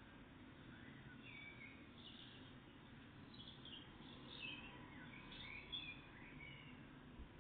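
Faint birdsong: many short high chirps and twittering phrases from small songbirds, over a steady low background rumble.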